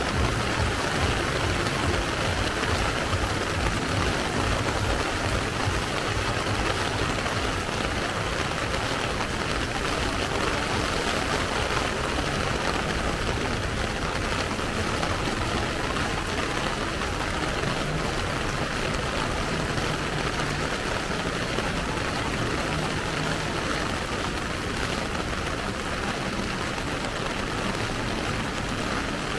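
Heavy rain falling steadily, large drops pattering on an umbrella overhead.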